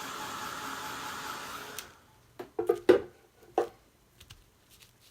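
Craft heat gun blowing a steady stream of hot air to dry matte gel, cutting off about two seconds in. A few short knocks follow, the loudest about three seconds in.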